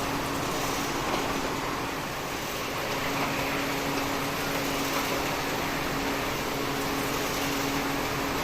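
Steady mechanical hum, with one constant low tone over an even noise.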